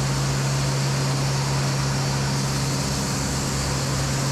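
Echo 45HD2 heavy-duty band sawmill running steadily: a constant low hum under a dense, even hiss.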